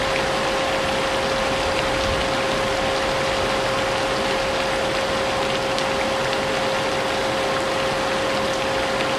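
Vacuum cleaner running steadily, its motor giving an unchanging whine over a wash of rushing air, mixed with falling rain.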